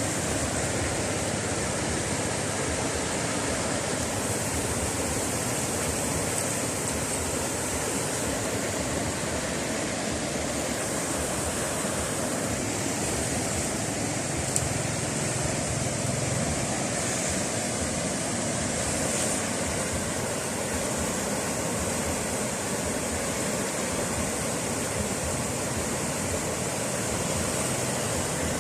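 Steady, even rushing noise with a faint high hiss, without distinct events.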